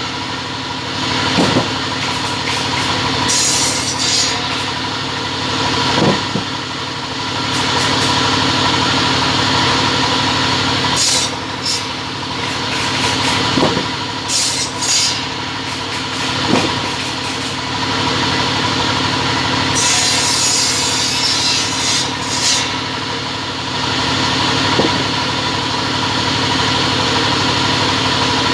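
Two-head cutting machine running steadily with a constant motor hum. Several short bursts of hiss come and go as it saws.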